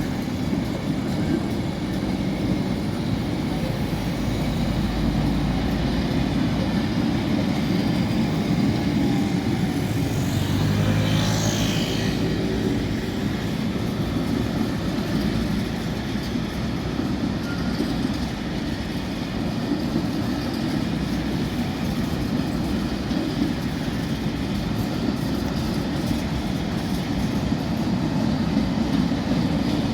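A train running past, a steady rumble of wheels on rail throughout, with a brief brighter hiss about ten seconds in.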